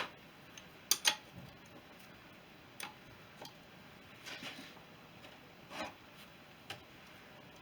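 Scattered metallic clicks and clinks of hand tools against the engine's crankcase bolts, about half a dozen separate taps with the loudest about a second in.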